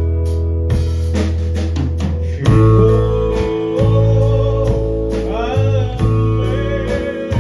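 Live rock band playing: guitar and bass chords over drums, with a steady cymbal tick about two to three times a second. The chords change with a louder hit about two and a half seconds in. A sliding lead note, from guitar or voice, bends through about five to six seconds in.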